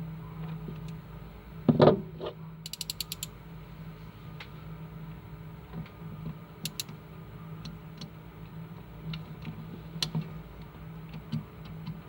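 Small mechanical clicking: a loud clatter about two seconds in, then a quick run of about eight sharp clicks, then scattered single ticks, over a steady low hum.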